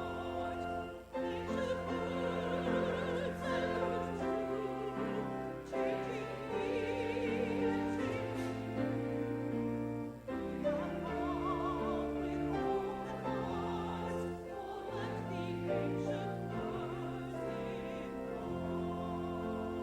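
Classical-style church singing with strong vibrato, over an accompaniment of long held bass chords that change every second or two.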